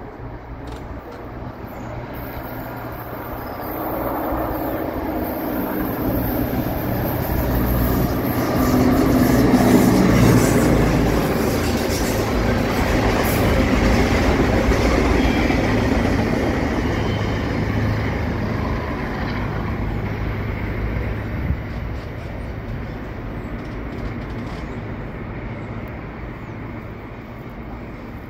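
Freight train rolling past close by, a string of boxcars rumbling over the rails. It builds to its loudest about ten seconds in, then slowly fades as the cars go by.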